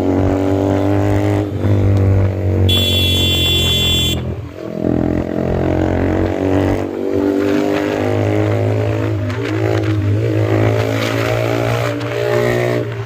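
Yamaha MT-15 motorcycle engine running through an Austin Racing aftermarket exhaust, its pitch wavering as it revs. A brief high-pitched tone joins it about three seconds in.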